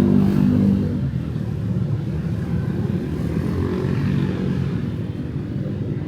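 Street traffic: motorbike and car engines running past, loudest in the first second and then a steady hum.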